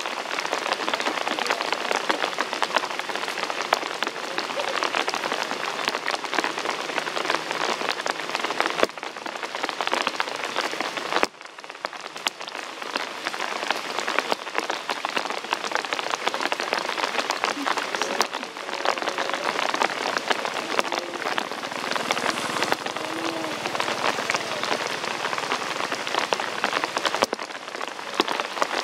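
Steady rain falling, a dense patter with many individual drops ticking close by. It drops suddenly quieter about eleven seconds in, then picks back up.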